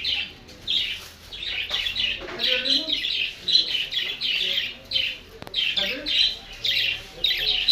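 Caged birds calling, a steady run of short harsh calls about twice a second.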